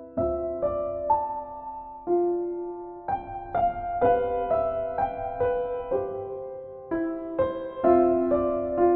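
Slow, gentle solo piano music: single notes and chords struck about once or twice a second, each ringing and fading.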